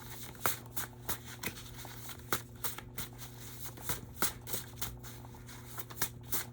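A deck of tarot cards being shuffled by hand, with irregular quick snaps and riffles as the cards are worked to make some jump out. A steady low hum runs underneath.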